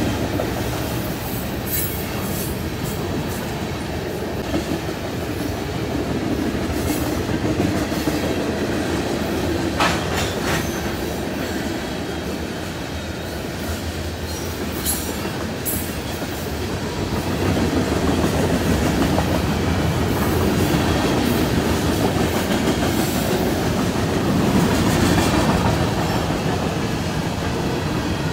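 Freight train of covered hopper cars rolling past: steady rumble of steel wheels on the rails, a little louder about two-thirds of the way through, with a few sharp metallic clicks.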